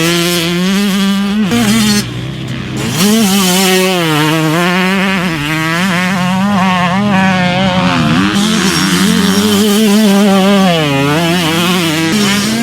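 Yamaha YZ125's 125cc single-cylinder two-stroke engine being ridden hard, its pitch rising and falling with throttle and gear changes, with short drops where the throttle is rolled off.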